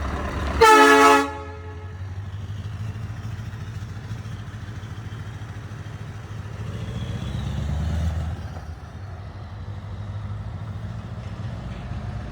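A short, loud horn blast about half a second in, over a Scania V8 truck engine running steadily, which swells louder around eight seconds in.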